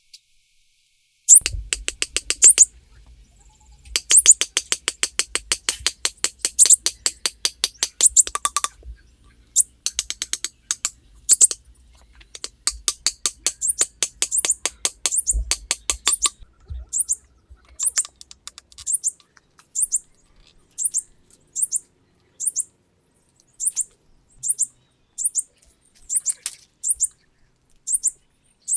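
A bird chirping: several bursts of fast, rapid-fire chirps with short breaks between them, then single high chirps about once a second.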